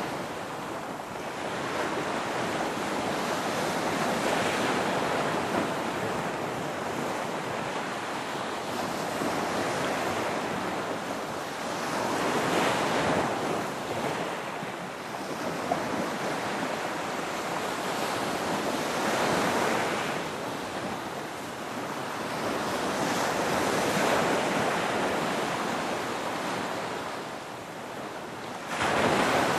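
Ocean waves breaking and washing on the shore, a steady surf hiss that swells and falls back every few seconds, with a louder wave crashing near the end.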